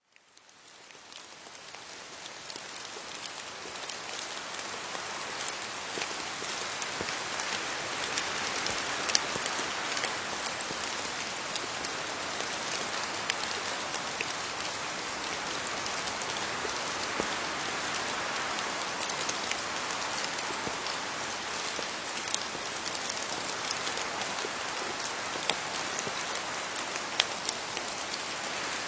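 Steady rain falling on leaves, an even patter with individual drops ticking sharply here and there. It fades in over the first few seconds, then holds steady.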